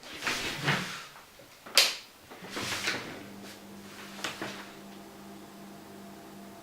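Small drinks fridge being handled: a few knocks and rustles and a sharp click as its door is worked, then a steady low hum sets in about three seconds in.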